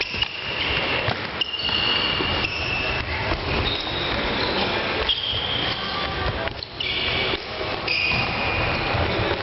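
Floorball game in play: shoes squeaking briefly and repeatedly on the court floor over a steady hall din, with a few sharp clacks of sticks and the plastic ball.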